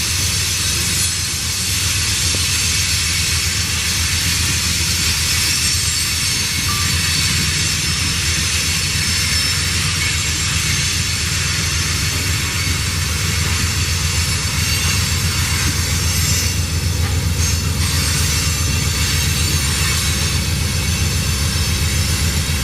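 Freight train rolling steadily past, a continuous deep rumble with rail and wheel noise over it.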